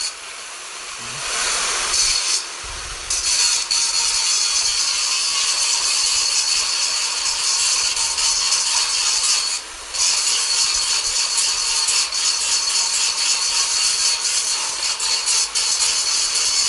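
Angle grinder grinding down a steel weld, a continuous harsh grinding noise over a steady high whine. It is lighter for the first couple of seconds and eases off briefly about ten seconds in.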